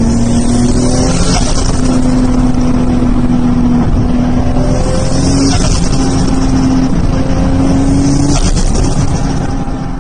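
Toyota Supra's turbocharged engine running loud and hard under load, its note briefly breaking and stepping in pitch about three times with bursts of hissing air: turbo flutter as the throttle is lifted.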